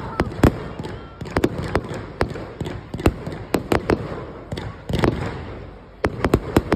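Fireworks going off: an irregular run of sharp bangs and cracks, several a second, with a quick cluster near the end.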